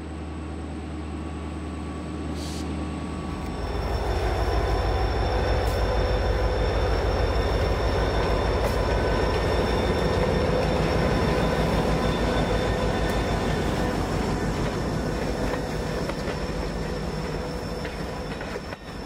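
Train passing on the line: steady rumble of rolling railcars that grows louder about three and a half seconds in, with thin high wheel squeal above it.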